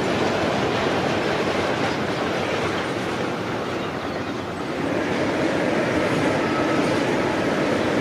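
A train passing on the line, a steady rolling noise that dips a little about halfway through before picking up again.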